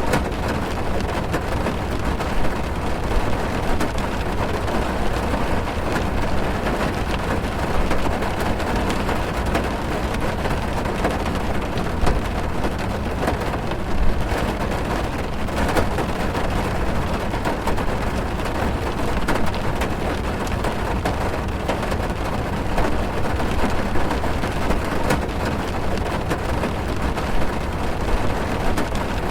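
Steady heavy rain drumming on a car's roof and windows, heard from inside the car, with a dense patter of drops and a deep rumble underneath.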